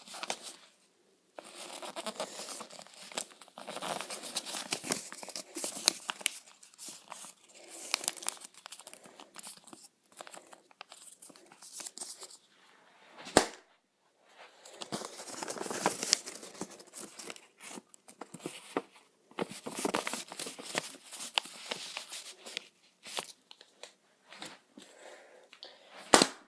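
Sheet of paper being handled and folded, crinkling and rustling in uneven stretches, with a single sharp crack about halfway through and another just before the end.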